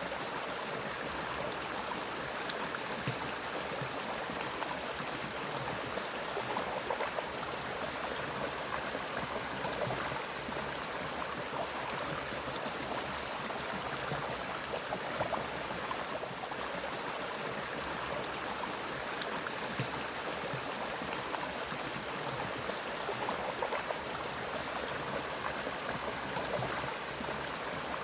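Mountain stream flowing steadily through forest, with a constant high-pitched tone held above the rush of the water.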